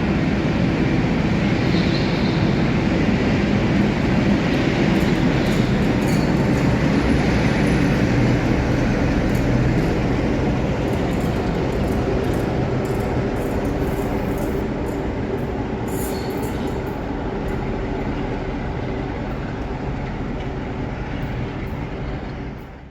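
A train running on the rails: a loud, steady rumble of wheels and running gear that eases slowly toward the end, then cuts off abruptly.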